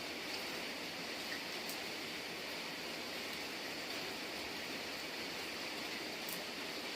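Steady rain falling, an even hiss with a few faint ticks of drops now and then.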